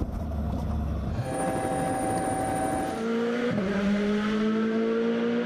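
Rally car engine running at high revs after a low rumble. About three and a half seconds in its pitch drops at a gear change, then climbs steadily again.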